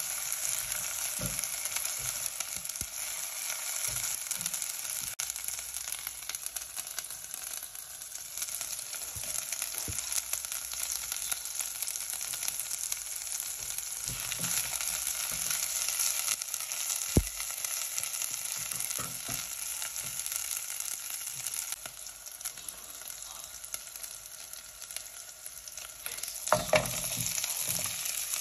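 Chopped onions and ginger-garlic paste sizzling in oil in a nonstick saucepan, stirred with a silicone spatula that taps lightly against the pan now and then. Near the end a short run of louder knocks as boiled mutton pieces go into the pan.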